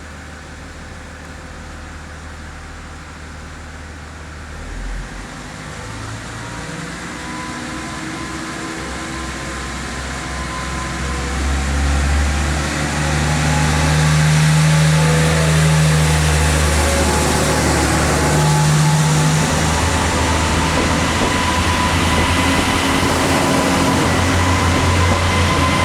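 Train approaching, growing steadily louder over about fourteen seconds, then holding loud with a low engine drone. Thin high squealing tones come in over the second half.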